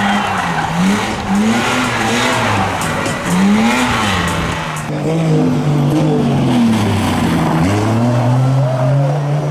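Rally car's engine revving up and falling back several times as it is worked on and off the throttle, with tyre squeal and skidding noise over the first half. Near the end the engine holds a steadier, slowly rising note.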